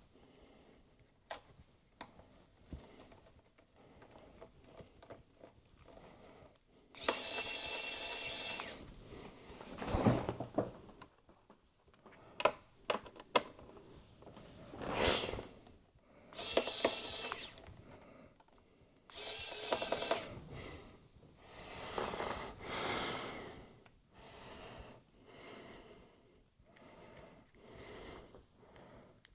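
Small electric screwdriver whirring in three short runs, driving in the screws of a lower support bracket, with sharp clicks and handling sounds between the runs.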